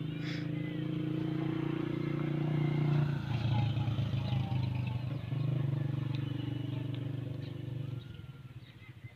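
A motor engine running with a steady low hum. It shifts about three seconds in and fades about eight seconds in.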